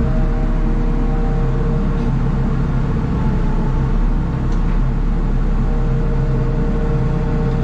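An engine running steadily with a loud low rumble and a steady hum, with no change in speed.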